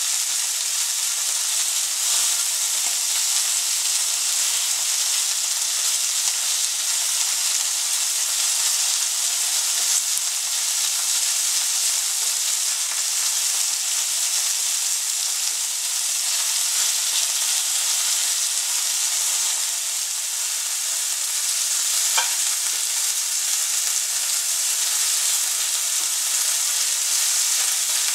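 Chicken pieces sizzling steadily in hot oil in a stainless steel frying pan. One brief click comes about three-quarters of the way through.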